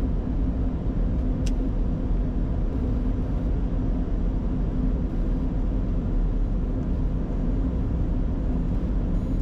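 Steady flight-deck noise of a Bombardier Challenger 605 on final approach: a rush of airflow and a low rumble with a faint steady hum, the jet configured with landing gear down and flaps at 30. One faint click about a second and a half in.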